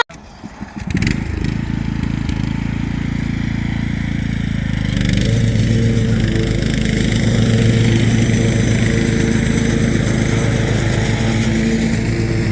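An engine starts about a second in and runs steadily, stepping up to a higher, louder speed about five seconds in and holding there.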